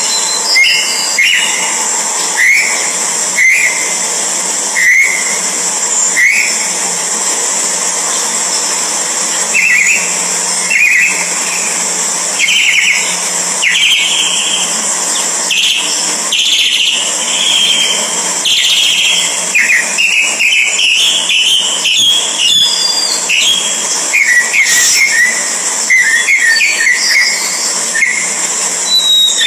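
Orange-headed thrushes at the nest giving short, clipped chirps, spaced out at first and coming faster and higher in the second half, over a steady high-pitched drone.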